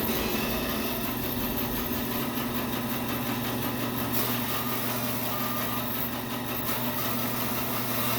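Bandsaw running steadily with its motor hum, the blade cutting lengthwise through a log being milled into boards.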